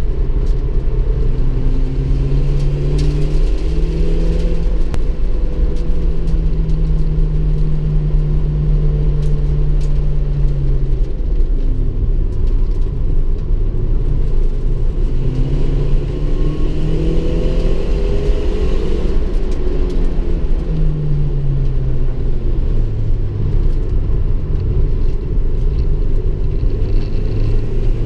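Turbocharged 1992 Mazda 323 engine heard from inside the cabin at racing speed. The engine note twice rises as it pulls hard and twice falls away as the driver lifts off, under a steady low rumble.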